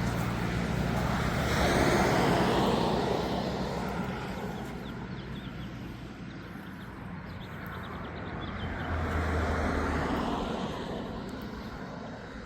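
Two motor vehicles passing by: the first swells and fades about two seconds in, the second near nine seconds, each with a low engine hum.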